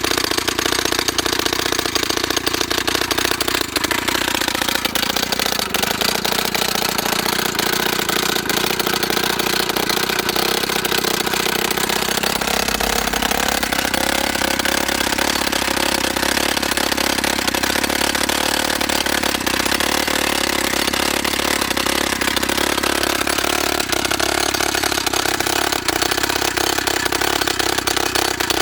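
YN30A mini rock drill's two-stroke petrol engine running loud and continuous, with a rapid clatter. Its pitch drops about four seconds in, stays low for several seconds, then rises again and holds steady.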